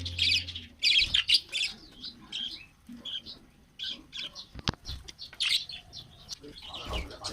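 A mixed flock of budgerigars and finches chirping and calling in short, scattered notes, with one sharp click a little past the middle.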